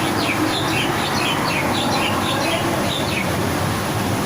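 Birds chirping in a quick run of short, falling calls, about a dozen, that stops a little after three seconds in, over a steady background noise.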